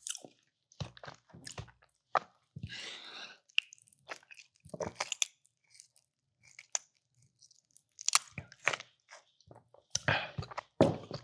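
Close-miked chewing of a person eating a meatball sub with mac and cheese: irregular wet mouth smacks and small crunches, with no talking.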